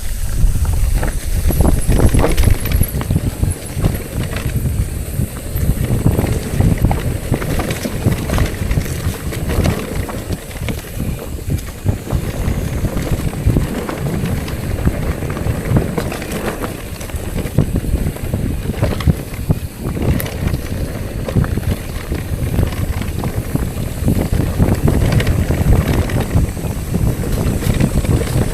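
Bicycle ride on an unpaved forest road: wind buffeting the camera microphone in a steady low rumble, with the tyres crunching and the bike rattling in many small knocks.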